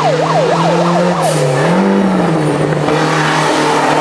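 Rally car's engine revving sharply up and down several times in the first second, then a steadier engine note.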